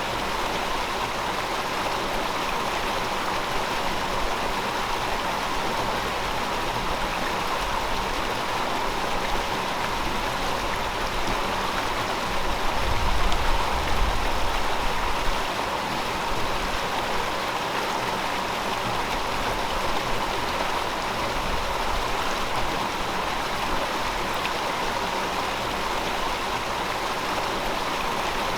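Steady rushing flow of a river, an even wash of water noise. A deeper, low rumble swells briefly about halfway through.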